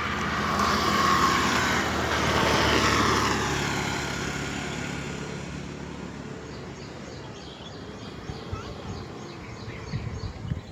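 A vehicle passes close by, its sound falling in pitch and fading away over several seconds.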